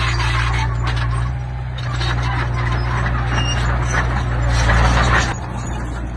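Diesel engine of earthmoving machinery running steadily, with clattering and scraping of stone and metal that is loudest about five seconds in and then drops away.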